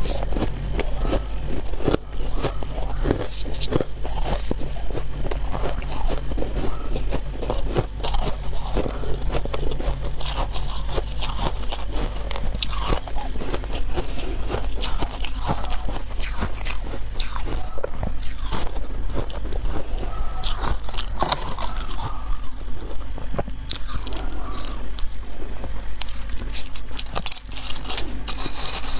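Close-up biting and chewing of soft, powdery freezer frost: a dense run of crisp crunches and crackles, over a steady low hum.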